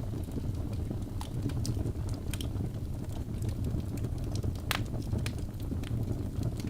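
Logs burning in a fireplace: a steady low rumble of flame with irregular crackles and pops, one sharper pop near the end.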